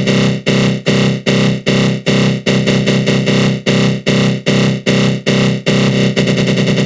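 Synthesized 'attack growl' sound effect: a loud, buzzy synth tone (GMS synth) run through a flanger, pulsing about two and a half times a second, then switching to a faster flutter about six seconds in.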